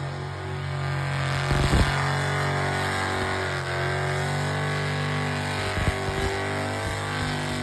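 Car engine idling steadily, revved briefly about two seconds in and again near six seconds.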